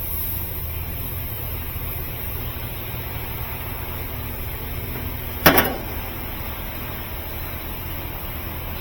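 Steady low mechanical hum, with one sharp click about five and a half seconds in.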